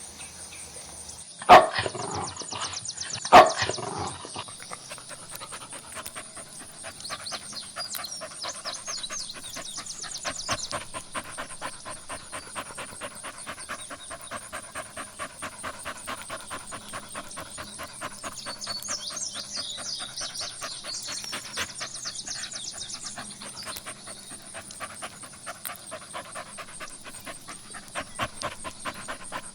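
Cow grazing close up: a fast, steady run of short rhythmic sounds, with two loud, sharp sounds about one and a half and three and a half seconds in.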